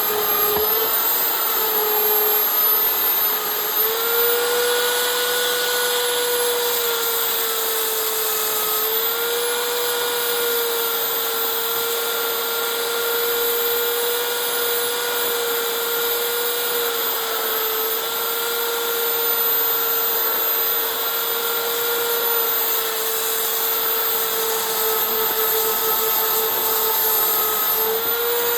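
Electric power tool running continuously while working cherry wood: a steady motor whine over a rasping hiss, its pitch dipping and recovering slightly a few times as it bears on the wood.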